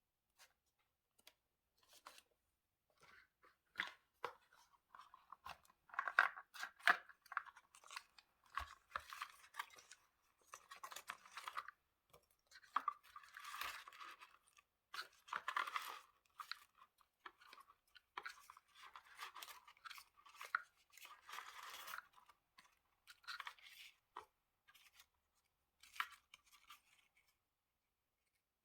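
Paper and stationery being handled: irregular rustling and crinkling of paper in short bursts, with scattered small clicks and taps, thinning out near the end.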